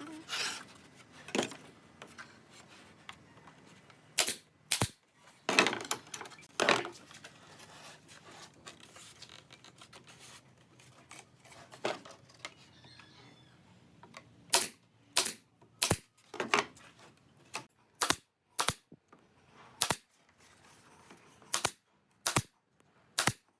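Sharp strikes of nails being driven into wood, coming singly and in quick pairs at irregular spacing, with a few quieter knocks between.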